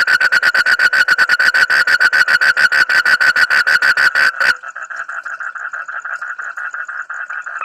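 Frog calling in a fast, even pulsed trill of about a dozen pulses a second. It turns abruptly quieter and thinner about four and a half seconds in, with the pulsing carrying on.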